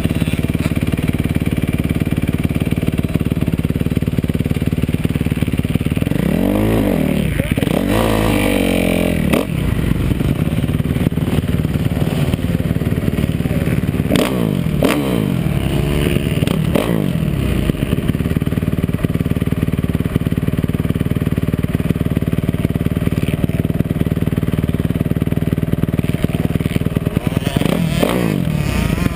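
Motocross bike engine running hard and continuously, its pitch dropping and climbing again several times as the rider rolls off and gets back on the throttle.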